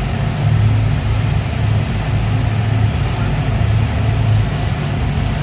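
Speedboat engines running steadily under way, a low drone that swells and eases about once a second over a background rush of noise.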